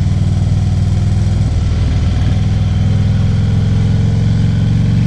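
Harley-Davidson touring motorcycle's V-twin engine idling steadily, heard from the rider's seat.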